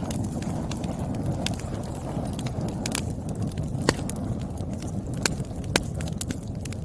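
Burning firewood: a steady low rumble of the fire with irregular sharp crackles and pops from the logs, a few of them loud.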